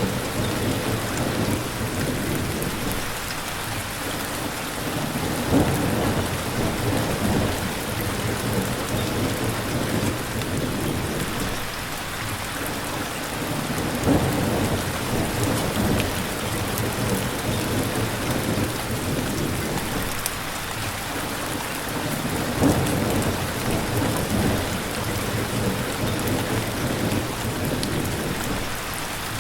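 Steady rain falling, with a continuous low rumble beneath it that swells and eases every few seconds.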